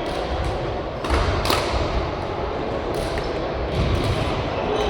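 Badminton rally: sharp cracks of rackets striking the shuttlecock, the loudest about a second and a half in and another about a second and a half later, with thudding footsteps on the court, echoing in a large hall.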